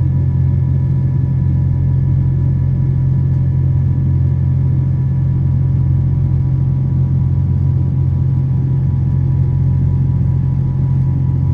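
Steady cabin drone of a Boeing 777 heard from inside the cabin: a strong even low hum with faint steady whining tones above it.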